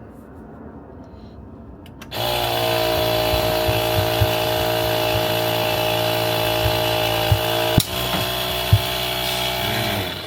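Air compressor blowing a steady blast of compressed air, a loud hiss with a whistling tone, used to force a golf grip onto the club shaft. It starts about two seconds in, breaks briefly near eight seconds and cuts off just before the end.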